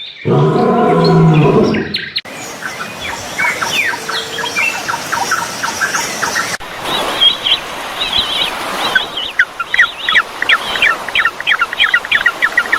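A frog croaking for about the first two seconds, then small birds chirping: a row of short repeated notes, and after a cut, a faster run of higher chirps.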